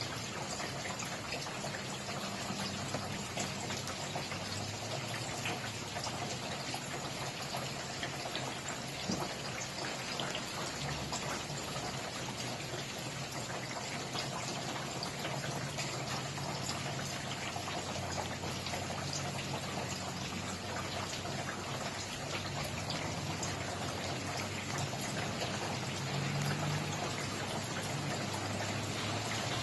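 Steady rain falling, with many individual drops pattering on a surface over a continuous hiss.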